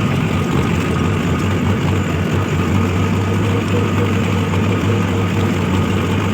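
Mahindra 605 tractor's diesel engine running steadily, with an even low hum.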